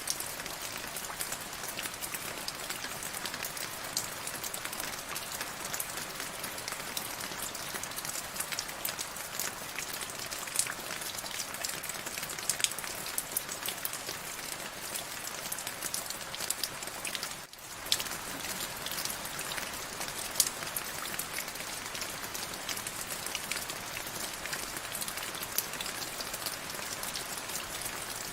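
Steady rain falling: a dense, even hiss full of sharp individual drop hits. The sound dips out for a moment a little past halfway through.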